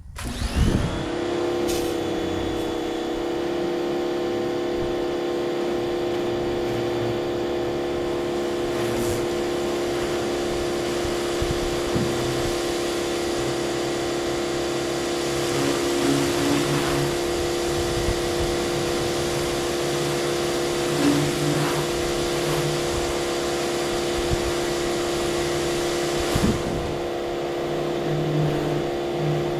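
Pressure washer running steadily, a constant motor drone under the hiss of its water spray as it soaks the inside of an aluminum jon boat.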